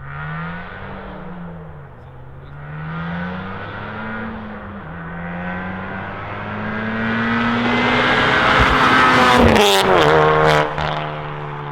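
Honda Civic Type R's turbocharged 2.0-litre four-cylinder accelerating hard through the gears on a catless downpipe and Remus valved cat-back exhaust, valves fully open. The engine note climbs and drops at each upshift and grows louder as the car approaches. It is loudest as the car passes about nine seconds in, with a few sharp pops, then falls to a lower steady note as it pulls away.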